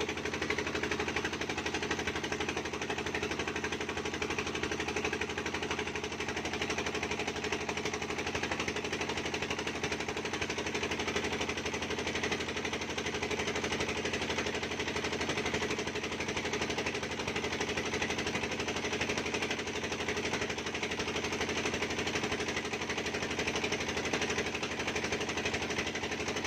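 Fishing boat's engine running steadily under way, with a fast, even knocking beat.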